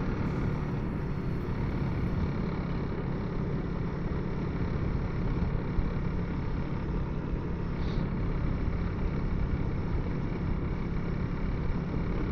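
Honda CRF300L single-cylinder engine running at a steady pace while riding, mixed with wind noise, heard through the Bluetooth helmet intercom microphone.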